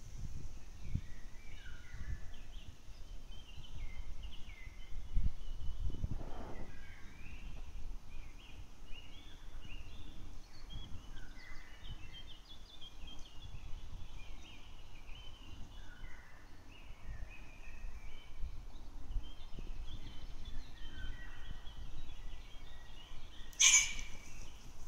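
Small birds chirping and singing over a low wind rumble on the microphone. A short, loud, sharp sound stands out about a second before the end.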